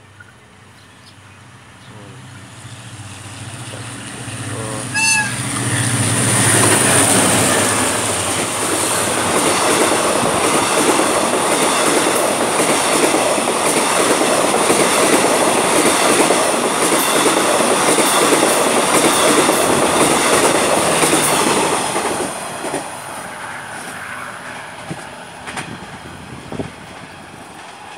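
Express passenger train passing at speed behind a Hitachi diesel-electric locomotive. The locomotive's engine drone builds as it approaches, with a short horn note about five seconds in. Then comes a loud, steady rush of the carriages with a clatter of wheels over the rail joints for about fifteen seconds, fading away near the end.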